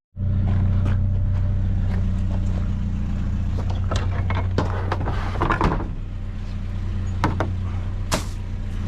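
Vehicle engine running steadily while driving, a low even drone, with a few short knocks and rattles scattered through it.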